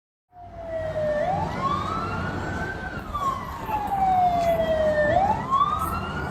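Emergency vehicle siren wailing: its pitch climbs over about a second and a half, then falls slowly over a couple of seconds, then climbs again, over a low rumble. It starts abruptly just after the beginning.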